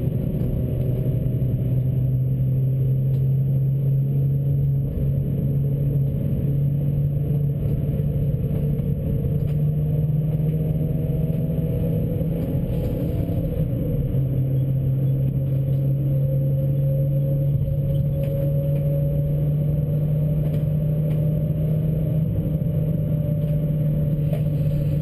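Suzuki Swift track car's engine heard from inside the cabin, running hard under steady load at speed with road noise. Its pitch climbs slowly through the second half, with a short dip about fourteen seconds in.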